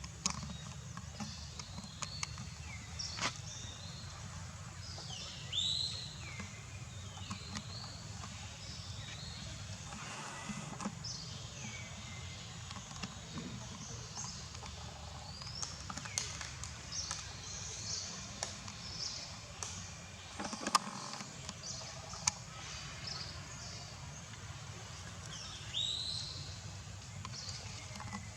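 Outdoor ambience with scattered short, high-pitched animal chirps and squeaks, a few sharp clicks (one louder about two-thirds through), and a steady low rumble underneath.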